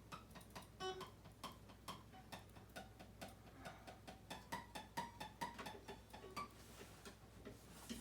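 Faint, brief acoustic guitar notes from the recording playing back quietly, mixed with many small clicks of a computer mouse while the tracks are edited.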